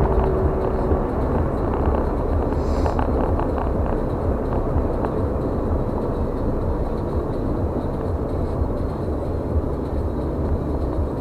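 Steady road noise of a car driving, heard from inside the cabin: an even rumble of tyres and engine. A steady hum stops about a second in.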